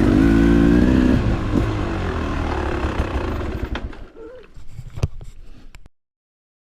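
Two-stroke dirt bike engine running, fading out about four seconds in, with a couple of sharp clicks before the sound cuts off abruptly.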